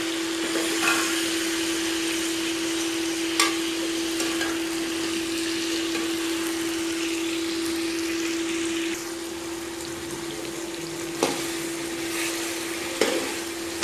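Onions, potatoes and whole tomatoes sizzling in hot oil in an aluminium karahi, stirred with a metal spatula that knocks against the pan a few times. A steady hum runs underneath.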